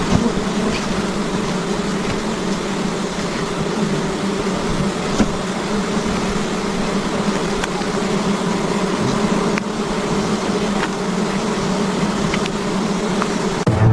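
A swarm of wild giant honeybees buzzing in a loud, steady drone, with a few faint clicks.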